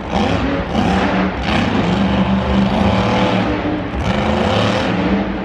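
Monster truck engine running loud and revving, its pitch rising and falling every second or so.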